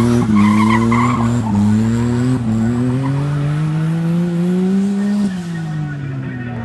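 Turbocharged Perodua Kancil drag car's three-cylinder engine launching and accelerating hard down the strip, its pitch climbing and dropping back at several quick gear changes in the first two or three seconds. It then pulls in one long rising sweep, drops off about five seconds in, and grows fainter.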